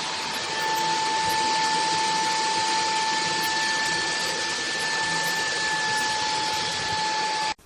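Bulelink 580 W cordless stick vacuum running steadily: a rushing airflow with a steady high whine, cutting off abruptly near the end.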